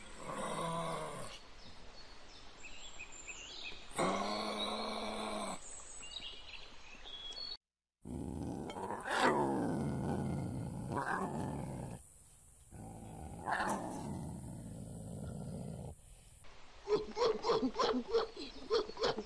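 A series of animal calls: two short pitched calls early, then a lion roaring twice, then a quick rhythmic run of calls at about four or five a second near the end.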